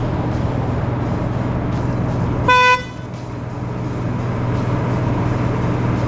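A vehicle's engine running steadily as it sets off off-roading, with one short, loud car-horn honk about two and a half seconds in.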